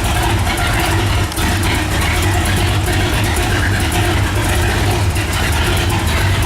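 Walkinshaw Holden V8 in a VK Holden running at a steady idle, loud and even, with a brief dip about a second in.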